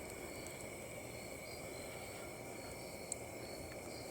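Crickets chirring steadily in a continuous chorus over a faint low rush. A single sharp pop from the campfire comes about three seconds in.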